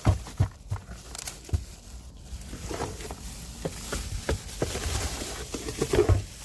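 Plastic vacuum-cleaner parts and packaging being handled: irregular rustling with scattered clicks and knocks, the loudest knocks near the start and near the end.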